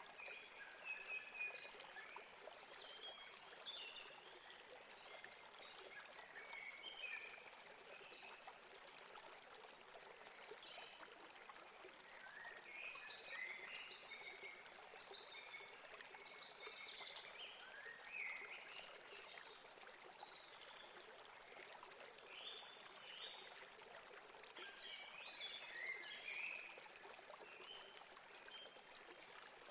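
Faint, steady rushing of a river, with small birds chirping on and off over it.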